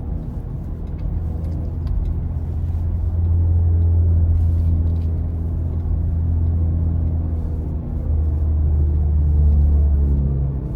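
Low road and drive rumble of a BMW i4 M50 electric car on the move, swelling louder about three seconds in and again near the end as it picks up speed.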